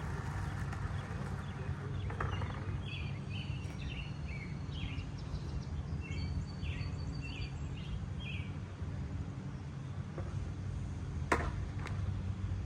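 Outdoor ambience: a steady low rumble with small birds chirping over it, and a single sharp knock near the end.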